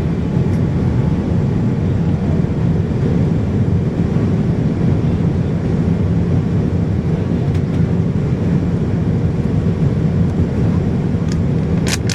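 Steady roar of a Boeing 787-9 airliner cabin in flight, engine and airflow noise, with a couple of sharp clicks near the end.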